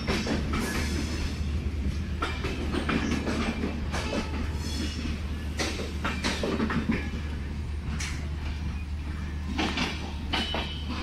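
Indian Railways express passenger train rolling past along a platform, its wheels clattering over rail joints with occasional high squeals over a steady low rumble. The sound eases a little near the end as the last coach, a parcel van, goes by.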